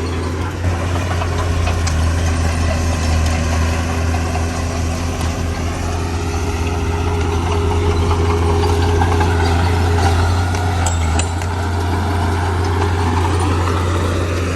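Heavy diesel engine of a construction machine running steadily, swelling slightly in the middle and settling again.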